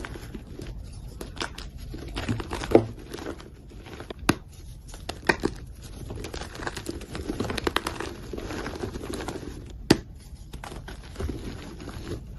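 Dyed gym chalk being crushed and crumbled: an irregular run of crunches and crackles, with louder sharp snaps about three seconds in and again about ten seconds in.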